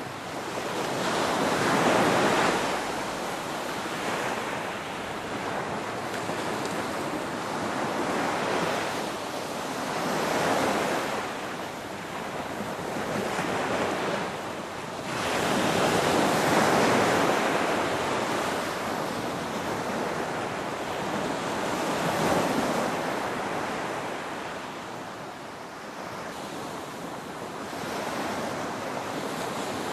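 Ocean waves breaking and washing ashore. The surf comes in repeated surges that each swell and fade over a few seconds, with the strongest near the start and about halfway.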